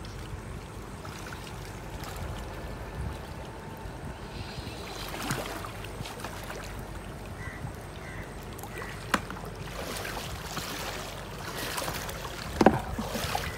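Water sloshing and splashing in shallow water during electrofishing, with two sharp knocks, the louder one near the end.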